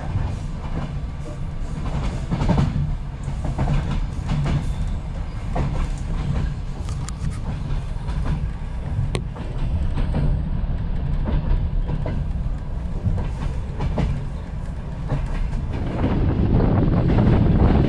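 Passenger train coaches running on the rails: a steady low rumble of the wheels with irregular clicks over the rail joints. Near the end it gets louder and fuller, heard through an open window.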